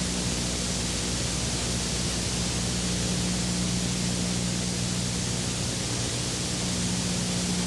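Steady hiss with a constant low hum underneath and no distinct events.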